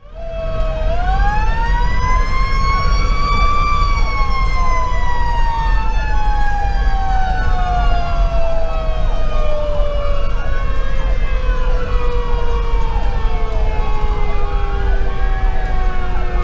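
Federal Q2B mechanical siren on a fire engine: it spins up for about three seconds, then winds down slowly and steadily. An electronic siren wails up and down over it about every four seconds, with the Detroit Series 60 diesel engine rumbling underneath.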